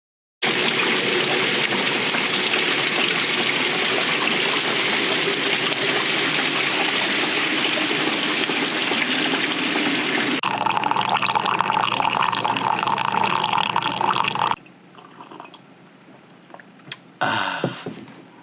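Heavy rain pouring down: a loud, steady hiss that changes character about ten seconds in, then cuts to a much quieter background with a few small knocks near the end.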